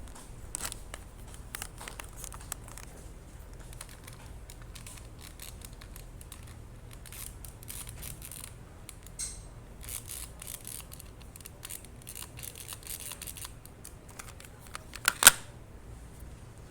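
Handling noises during repair work: scattered small clicks and scrapes over a low steady hum, with one loud sharp click near the end.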